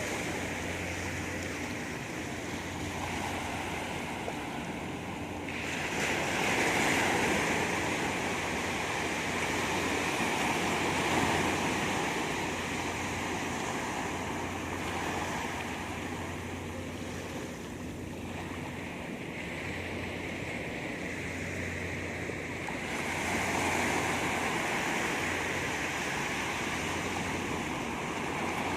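Sea surf breaking and washing onto a beach, swelling louder several times, with wind on the microphone.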